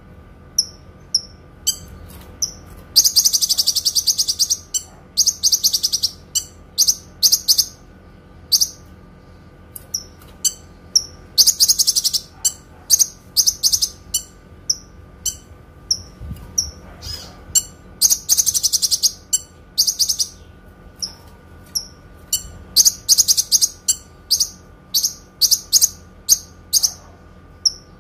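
Kinoi songbird singing in very high-pitched, clear chirps, broken by several long rapid trills (the 'long shots').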